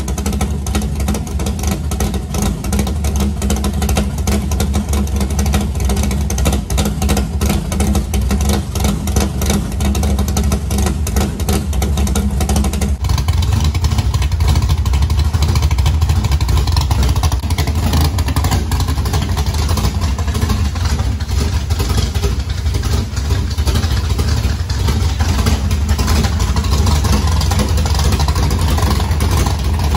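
Dirt modified race car's engine running loudly at a lumpy idle, warming up so the oil gets hot before it is drained. After a cut about 13 s in, a steady hiss of heavy rain joins the engine.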